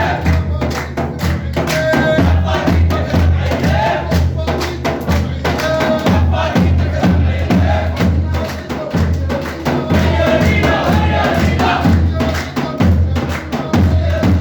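Levantine radda chant: a man's voice chanting over a steady, driving drum beat with many sharp percussive hits.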